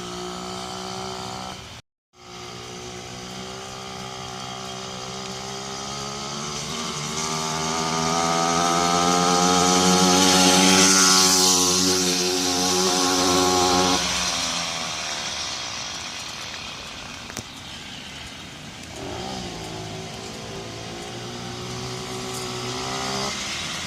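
Murray moped's Puch E50 single-cylinder two-stroke engine running as it warms up after a push start. It grows steadily louder to a peak about halfway through, fades, then rises again near the end, with a brief dropout about two seconds in.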